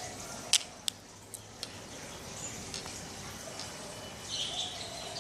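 Four sharp light clicks in the first two seconds, the first the loudest, as beads strung on twine are handled and knotted, then quiet handling.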